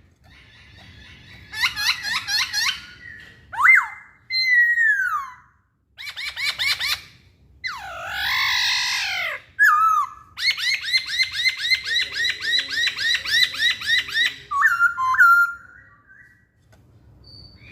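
Black-throated laughingthrush (poksay Hongkong) singing a varied run of loud whistled phrases: rising and falling slurred whistles, then a long rapid trill in the middle, ending with short upward-swept notes.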